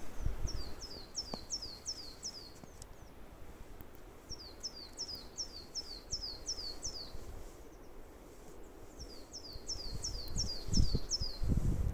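A small songbird singing three phrases, each a quick run of about eight high notes that each slide downward, with short pauses between phrases. Low muffled bumps come in near the end.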